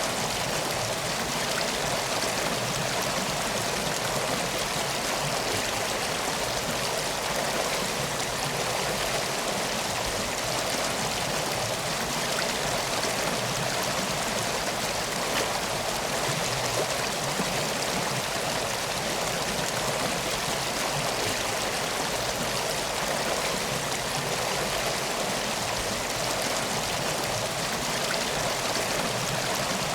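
Steady rushing of flowing water, like a stream or river, unbroken and even throughout.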